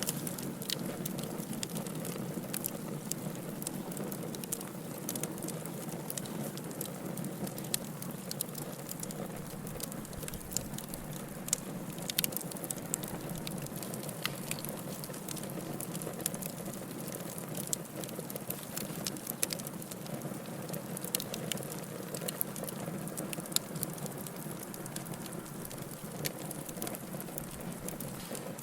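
Wood fire burning in a fireplace, a steady low rush of flames with irregular crackles and pops, some sharper and louder than others.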